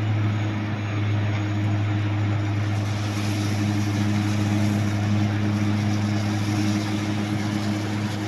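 An engine running steadily: a constant low hum with overtones over a broad noise, with no change in speed.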